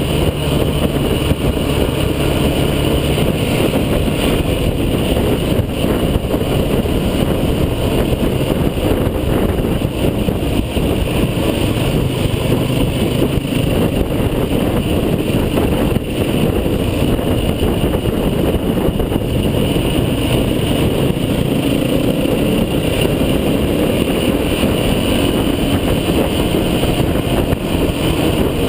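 Off-road vehicle's engine running steadily while driving, its pitch shifting a little near the end.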